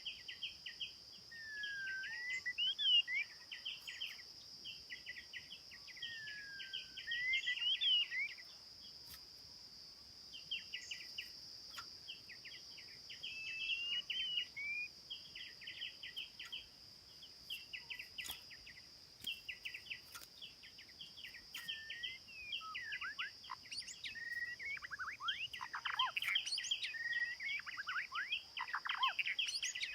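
A songbird singing in long phrases of rapid chattering notes mixed with whistled upward and downward slides, with short pauses between phrases. The song grows denser near the end. A steady high-pitched drone runs underneath.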